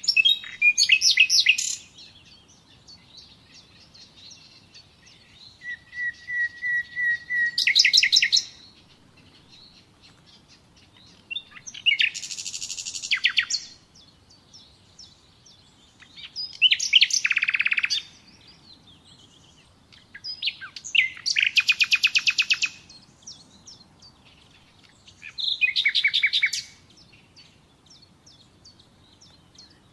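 Common nightingale singing: six separate phrases of rapid repeated notes and trills, set apart by pauses of a couple of seconds. One phrase opens with a run of soft, even whistles that swells into a loud trill.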